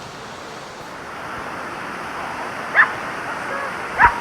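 A dog barks twice, once about three seconds in and again near the end, over the steady rush of creek water that grows louder about a second in.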